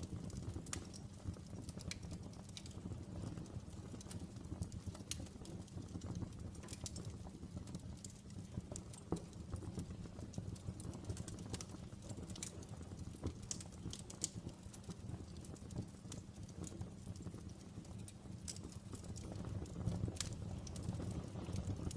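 Outdoor fire crackling: irregular sharp pops and snaps over a low steady rumble.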